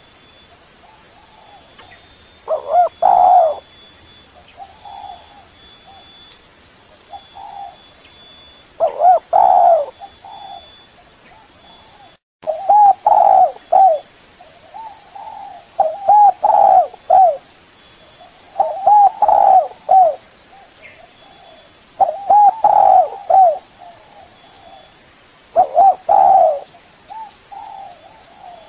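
Spotted dove cooing: loud coo phrases every three to four seconds, with fainter coos between them, played as a lure call to draw other doves.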